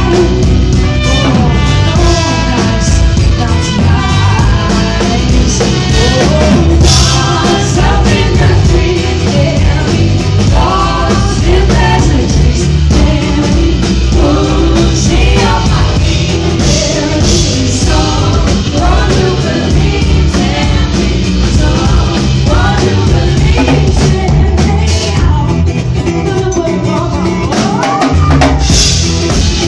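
Live band music with a drum kit and a voice singing over it.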